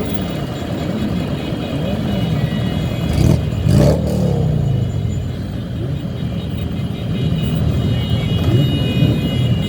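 Motorcycle engines running in a large group ride, their revs rising and falling, with a louder rev surge about three and a half seconds in.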